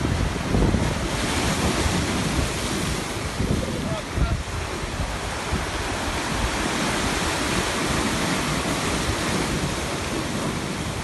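Sea waves washing in and out as a continuous surf hiss that swells and eases, with wind rumbling on the microphone.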